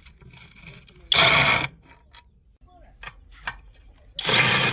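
Two short bursts of mechanical ratcheting from tool work on a Honda GX200 engine, each about half a second long, one about a second in and one near the end.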